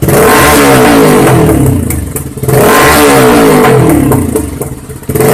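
TVS Apache RTR 200 4V's single-cylinder engine revved hard through its exhaust twice, each rev held for about two seconds before the pitch drops back as the throttle closes, with a third rev starting at the end.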